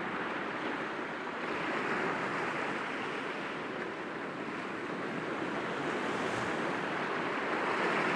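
Sea waves breaking gently against rocks, a continuous wash of surf that swells about two seconds in and again near the end.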